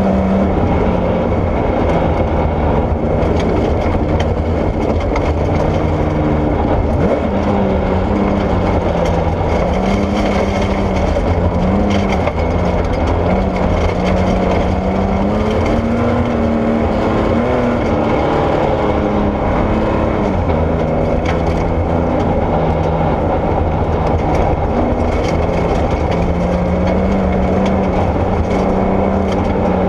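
Porsche 964 rally car's air-cooled flat-six engine working hard, its pitch rising and falling again and again as it is driven on and off the throttle. Gravel crunches and cracks against the car throughout.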